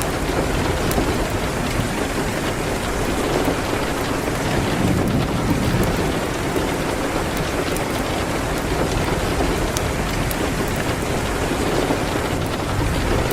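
Steady heavy rain on a window, with a constant low rumble underneath and a few faint sharp crackles from a wood fire.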